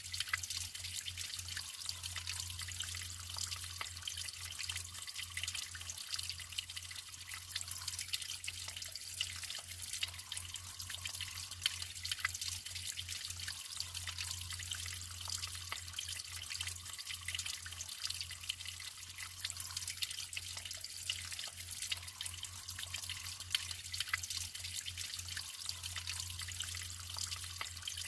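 Natural flowing water trickling and splashing steadily, with many small drips and splashes over an even rushing hiss.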